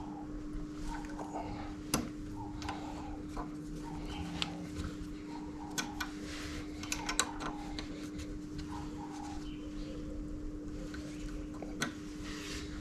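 Scattered light clicks and taps of hand work on the motorcycle's front brake, over a steady low hum; the sharpest click comes about two seconds in.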